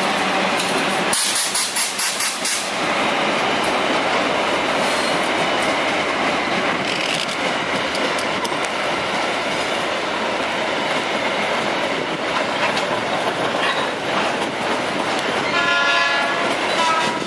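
A freight train of boxcars rolling past at close range: a steady rumble, with rapid, even wheel clicks over the rail joints about a second in. Near the end a second train's diesel locomotive sounds a multi-tone horn as it approaches.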